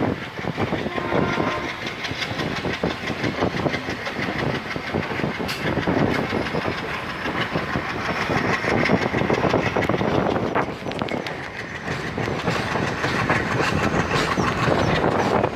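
Passenger train running along the line, heard from on board: steady rumble of the wheels on the rails with a continuous clatter of wheels over rail joints.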